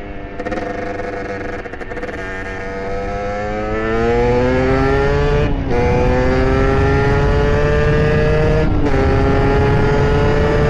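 Beta RR two-stroke engine with a 70cc Airsal kit and SCR Corse expansion exhaust, accelerating through the gears. The engine note climbs in pitch, cuts briefly and drops at gear changes about five and a half and nine seconds in, then climbs again.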